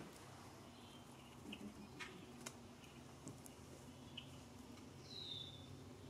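Faint, sparse bird chirps over quiet background hum, with a short falling chirp about five seconds in and a couple of soft clicks around two seconds.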